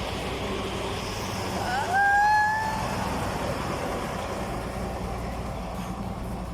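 Heavy truck passing close by on a bridge, its engine running steadily under road noise. About two seconds in, a single clear tone lasting roughly a second rises slightly in pitch and stands out as the loudest sound.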